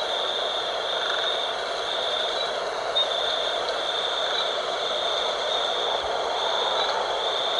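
Night wind blowing steadily, with a high-pitched insect trill above it that comes in repeated pulses of about a second each.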